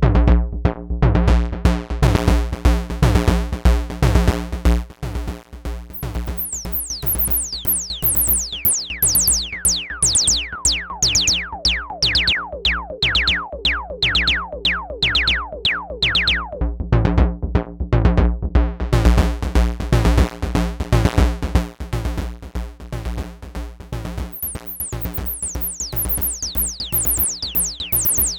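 Semi-modular analog percussion synthesizer playing a fast sequenced pattern: a repeating low kick-like pulse under rapid pitched hits. Through much of it, bright high tones sweep quickly downward in pitch.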